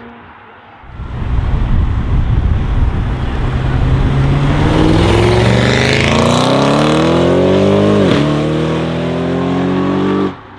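Audi RS7's twin-turbo V8 through a decatted Akrapovic exhaust, accelerating hard: a loud rumble starts about a second in, then the engine note rises steadily, dips briefly about eight seconds in, and holds high before cutting off suddenly near the end.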